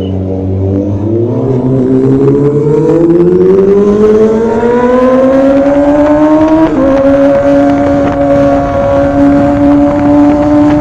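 Kawasaki ZX25R's inline-four engine through an SC Project exhaust, accelerating with its pitch rising steadily for several seconds, then dropping once about two-thirds in as it shifts up a gear, and holding a steady pitch after.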